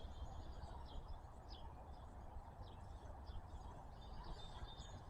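Quiet outdoor background: faint birds chirping now and then over a low steady rumble.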